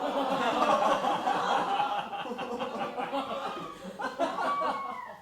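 Theatre audience laughing: many voices laughing together, strongest in the first couple of seconds and tailing off near the end.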